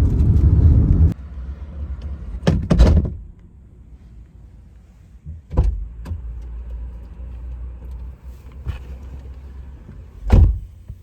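Car running with a low rumble that cuts off abruptly about a second in, followed by a few scattered thumps, the loudest near the end.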